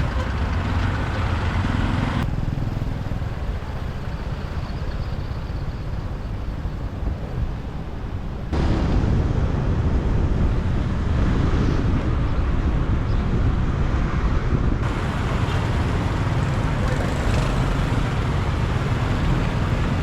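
Motorbike riding in city traffic: steady engine and road rumble with traffic around it. The sound changes abruptly twice, about two seconds in and again, louder, about eight seconds in.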